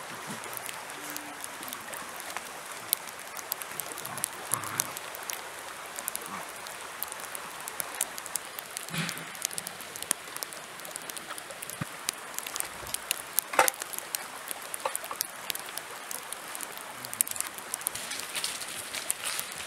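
Rain pattering on fallen leaves, many small drips over a steady hiss, with a few short clucks from chickens now and then.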